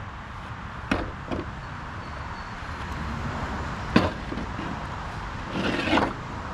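A few sharp knocks, the loudest about four seconds in, then a brief scrape near the end, as a lawn tractor's mower deck is handled and loaded onto a hand truck.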